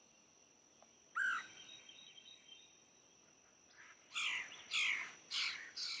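Bird calling: a single short chirp about a second in, then four calls in quick succession near the end, with a faint steady high tone underneath.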